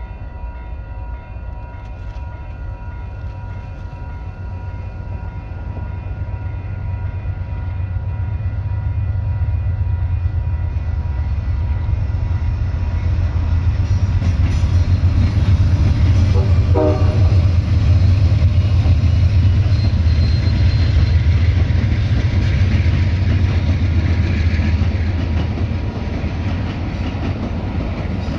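Amtrak California Zephyr passenger train approaching and passing: the chord of its locomotive horn sounds at a distance in the first part, then the diesel locomotive rumble grows loud and peaks past the middle, with a brief horn blast a little past halfway, before the passing cars fade.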